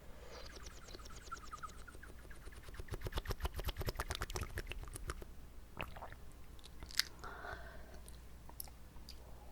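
Water swished and gurgled inside the mouth: a run of fast wet clicks that is loudest about three to four seconds in, then a few scattered wet pops, the sharpest about seven seconds in.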